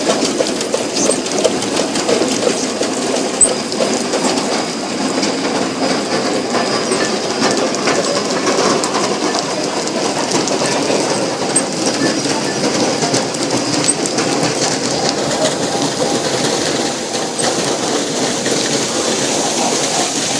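Wet ginger washing and peeling machine running: a steady mechanical rattle with scattered light clicks.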